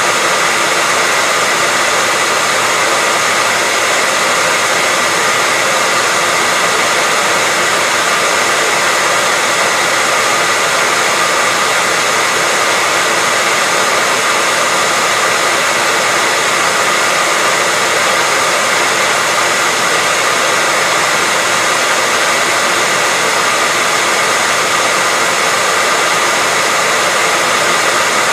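Hair dryer running continuously at a constant speed: a steady rushing blow of air with a faint high whine from the motor, unchanging throughout.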